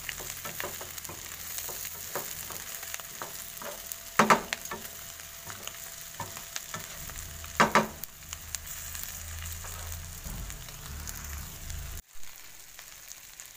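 Shrimp with garlic and chili sizzling in oil in a non-stick wok while a wooden spatula stirs and scrapes them, with many small clicks and two louder knocks of the spatula on the pan. About twelve seconds in the stirring stops abruptly, leaving a fainter sizzle.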